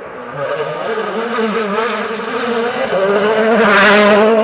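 Turbocharged four-cylinder rally car engine running steadily, growing louder and passing loudest with a rush of noise about four seconds in.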